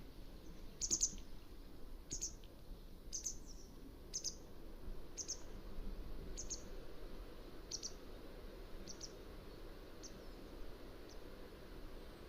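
Mountain wagtail calling: a series of short, high chirps about one a second, growing fainter toward the end, over a steady low background hiss.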